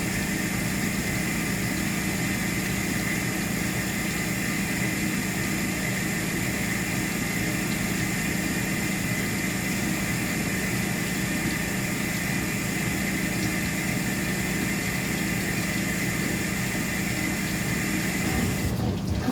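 Brastemp BWT09A washing machine's pump running with a steady hum and a high whine during the super rinse. It cuts off near the end, giving way to the sound of running water.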